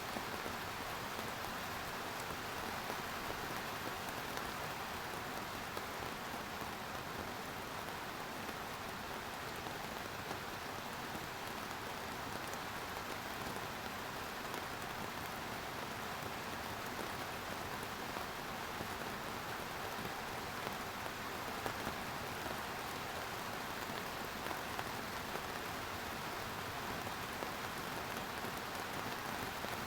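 Steady rainfall, drops pattering on surfaces with a few sharper individual drop ticks scattered through it.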